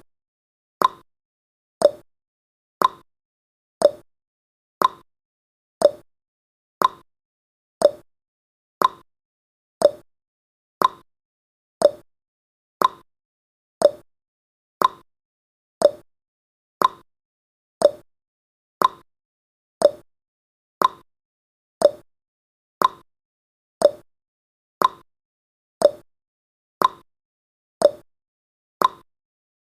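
Countdown timer's clock-tick sound effect: a short tick once a second, alternating slightly higher and lower in pitch like a tick-tock.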